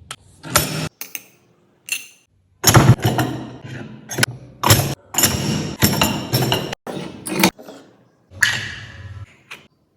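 A series of sharp clunks, knocks and clicks with brief scraping and rustling, as materials are handled and pressed in a magnet-making press. The sounds come in short snippets broken by abrupt drops to silence.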